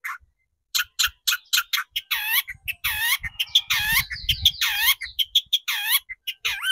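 Long-tailed shrike (cendet) calling in a rapid string of short, harsh notes, with a brief pause just after the start. From about two seconds in the calls lengthen into sweeps that drop and hook back up, about three a second, over a faint low rumble midway.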